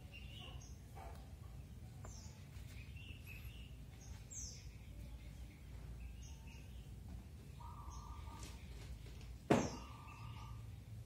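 Small birds chirping on and off, short high falling chirps with a few longer held notes. A single sharp knock late on is the loudest sound.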